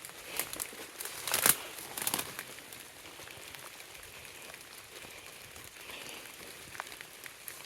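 Footsteps crunching and rustling over loose ground, with a few sharp crackles in the first couple of seconds, the loudest about a second and a half in, then fainter rustling.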